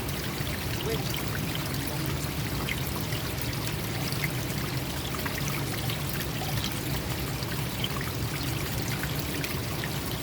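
Forest stream flowing and splashing, a steady, even rushing of water.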